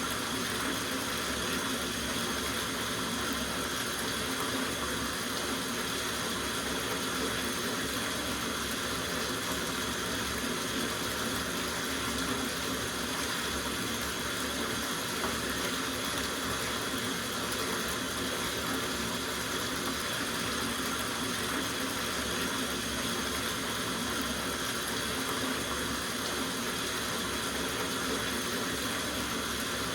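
Tap water running steadily into a soaking bathtub, splashing into the tub in an even, unbroken rush.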